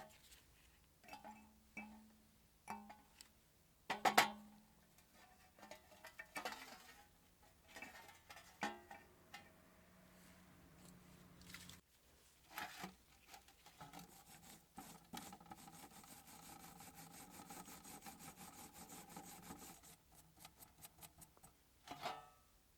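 Small parts and hand tools handled on a workbench: scattered clicks and knocks, the loudest about four seconds in. From about a third of the way in to near the end comes a run of fast, even scraping ticks.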